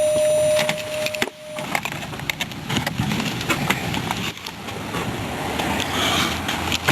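A car's warning chime sounds one steady tone for about a second and a half with the engine just switched off. Irregular clicks and rustling handling noises follow.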